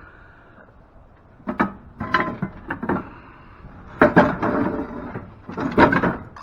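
Heavy metal parts knocking and clattering in several bursts as the table is dismantled by hand, the loudest clanks about four seconds in and near the end.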